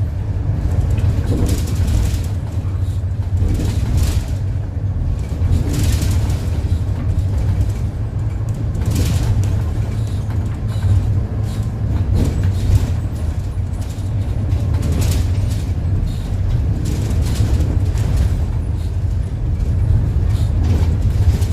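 City bus engine running steadily as the bus drives, with a few brief rattles or knocks from the vehicle.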